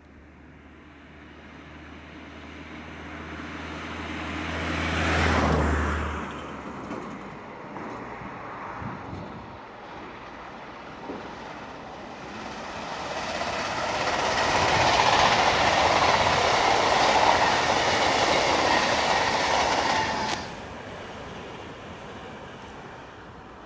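Electric regional passenger train passing at speed on the main line. A low hum swells to a peak about five seconds in and stops suddenly. Wheels on rail then rise to a long, loud rolling rush that cuts off sharply near the end as the train clears.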